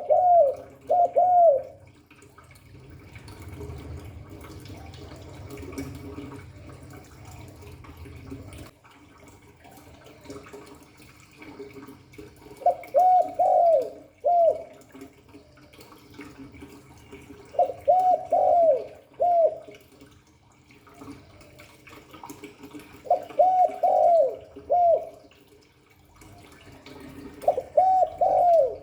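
Spotted dove cooing: short phrases of three or four coos, repeated about every five seconds.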